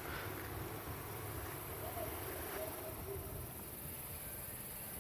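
Quiet outdoor ambience: a steady low rumble with a few faint short chirps around the middle.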